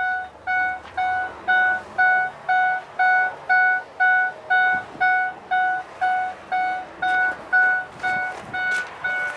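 Cab warning chime of a Ford F550 truck, a steady electronic beep repeating about twice a second.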